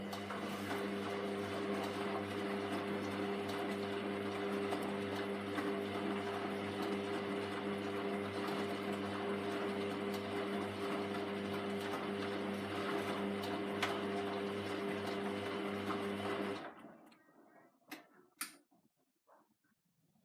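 Hoover Vision Tech VT 914 D22X washing machine running steadily during a 40°C mixed wash, a constant motor hum for about sixteen seconds that then stops abruptly. A few faint clicks follow.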